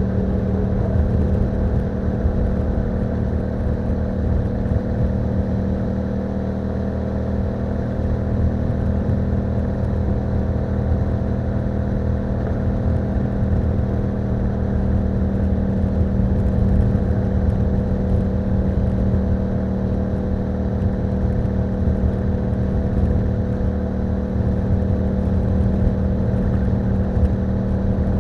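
Yamaha MT-07's parallel-twin engine running through an Akrapovic exhaust with a dB killer fitted, under way at a steady engine speed with only small changes in pitch.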